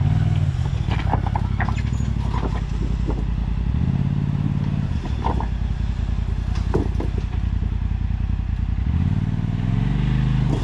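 Four-seater side-by-side UTV engine running at low speed while crawling over rocks, revving up in short bursts three times, with scattered clicks and knocks of rock. The drive belt is running hot from the climbing.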